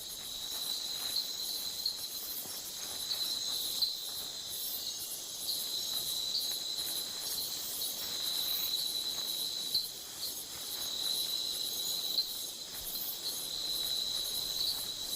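Night-time chorus of insects such as crickets or katydids: a steady high-pitched trill with a shriller, rapidly pulsing layer of calls above it.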